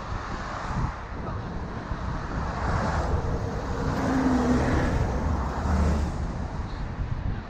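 Street traffic going by, with a low, gusty rumble of wind on the microphone.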